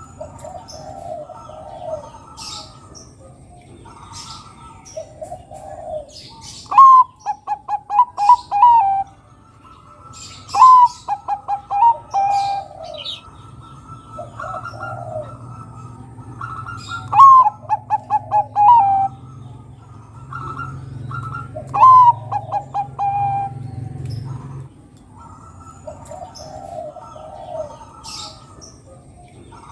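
Zebra dove (perkutut Bangkok) singing: four loud cooing phrases, each opening with a short rising note, running into a quick string of short notes and ending on drawn-out coos. Softer coos sound between the phrases.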